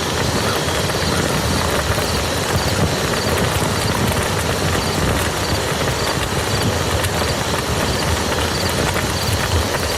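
Steady rain falling on a muddy field: a dense, even patter of drops.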